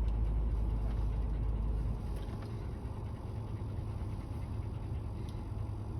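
Fire ladder truck's diesel engine running steadily, a low rumble that drops a notch about two seconds in.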